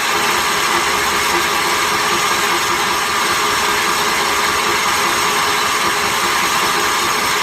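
The Kohler engine of a 1981 Case 444 garden tractor being cranked over by its electric starter, a steady even drone that does not catch and run. It is being turned over to test the freshly cleaned fuel pump, which is pushing fuel into an unclamped outlet hose.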